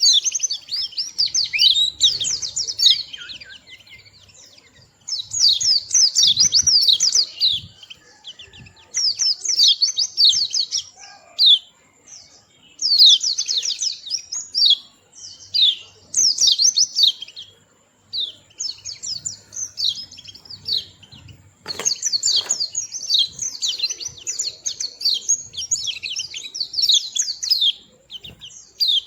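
White-eye (pleci) singing: a rapid, high twittering song in bursts of a few seconds separated by short pauses, with the longest unbroken run in the last third.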